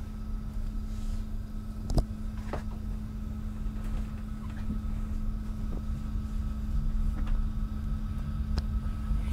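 Passenger train carriage rolling slowly out of a station, heard from inside: a steady low rumble with a constant hum, a sharp knock about two seconds in, and a few fainter clicks after it.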